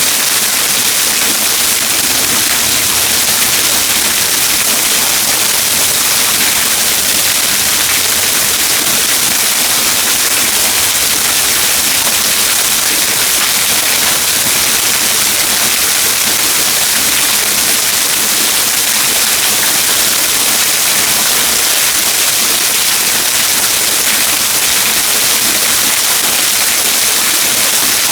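Waterfall splashing: a loud, steady rush of falling water.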